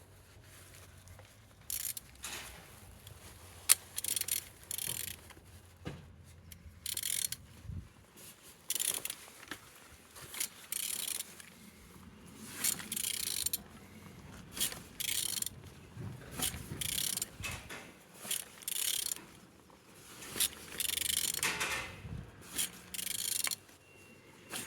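Toyota 2AZ-FE inline-four engine being turned over by hand with a wrench: repeated short bursts of mechanical clicking and scraping about once a second, with one sharp click about four seconds in. The engine turns freely and is not seized.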